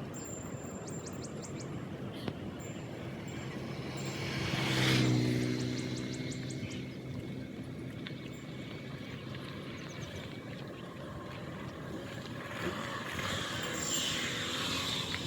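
A motorcycle engine passing by, growing louder to a peak about five seconds in and dropping slightly in pitch as it moves away, with a second, noisier swell near the end. Faint bird chirps sound over it.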